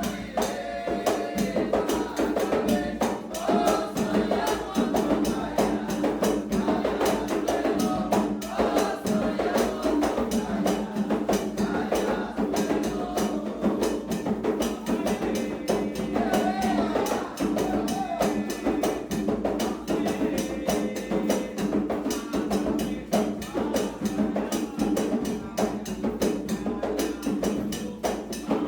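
Candomblé ritual music: drums struck in a fast, steady rhythm with a bell-like clacking beat, under a group of voices singing a chant.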